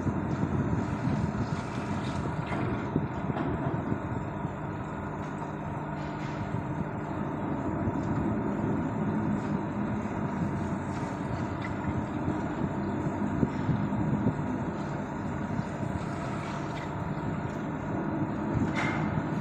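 Steady rumble of vehicle engines and traffic, with a few short hisses; the clearest comes near the end.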